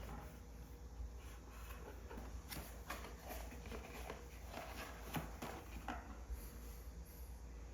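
Faint, scattered light taps, clicks and rustles of objects being handled in a small room, as items are unpacked.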